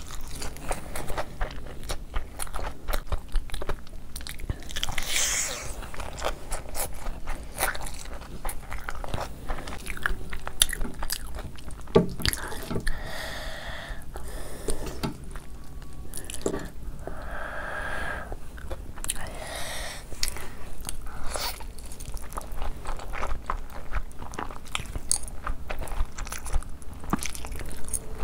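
Close-miked eating: chewing and crunching of fried loaded fries and then spicy instant noodles, with many small wet mouth clicks.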